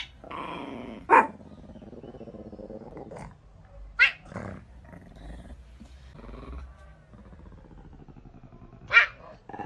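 A dog growling, with short sharp barks four times: right at the start, about a second in, around four seconds in and near the end.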